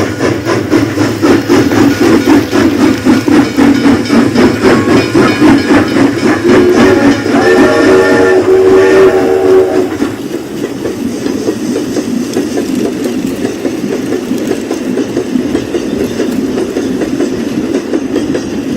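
Toy train running on its track, its wheels clicking rhythmically over the track joints, with the train's whistle sound effect sounding for about three seconds midway. After that the running is quieter.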